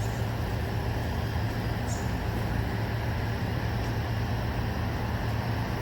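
Steady white-noise bed, an even hiss over a constant deep rumble.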